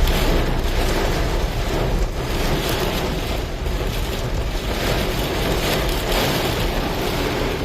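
Steady rushing noise of rain and a vehicle on a wet road, with wind on the microphone.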